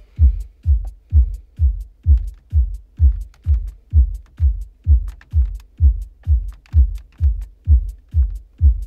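Electronic dance music played loud through a car audio system, with a heavy bass kick about twice a second that drops quickly in pitch, and light high ticks between the kicks.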